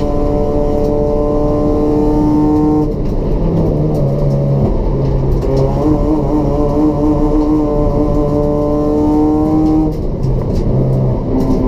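Race-built Toyota Etios's 1.5-litre petrol engine with cold air intake and free-flow exhaust running hard at high revs. The engine note falls off sharply about three seconds in, climbs slowly back up, and falls off again near the end.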